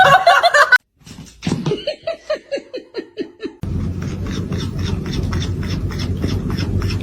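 A pet's rapid run of short falling calls, about four a second, followed after a cut by a steady low rumble with a regular ticking.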